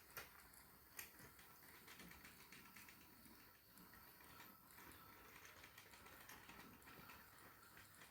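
Faint running of a Trix HO-scale model locomotive: its small motor and gears whirring, with fast, irregular clicking from the wheels on the track. It stops suddenly at the end.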